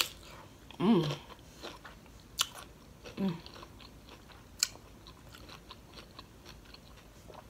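A bite into a raw cucumber spear, then close-up chewing with crisp crunches and small wet clicks, a few louder crunches standing out. Two short hummed voice sounds come about a second in and about three seconds in.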